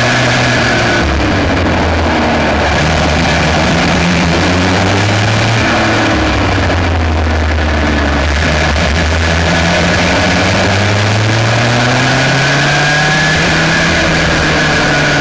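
Aixro Wankel rotary kart engine running hard, heard up close from the kart. Its revs fall twice, about a second in and again around six seconds, then climb steadily in the second half as the kart slows and accelerates.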